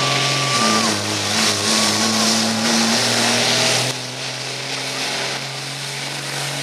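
Diesel pickup truck engine running hard under load while pulling a sled, with a thin high whistle in the first second. The engine note drops about half a second in, and the sound gets quieter about four seconds in.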